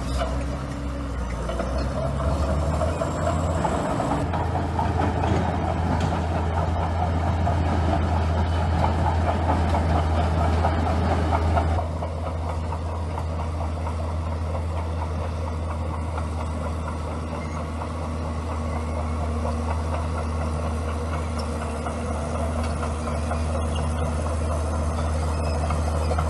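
Bulldozer's diesel engine running steadily, working harder with added noise from about four seconds in and easing back a little around twelve seconds in.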